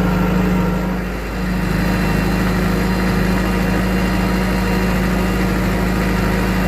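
An engine running steadily at idle, a constant low hum with a brief dip about a second in.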